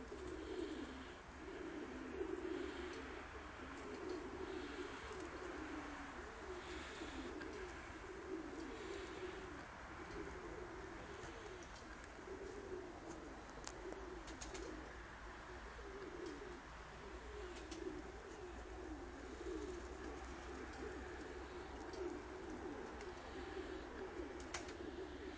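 Domestic pigeons cooing continuously, several birds' low wavering coos overlapping, with a few sharp clicks in the second half.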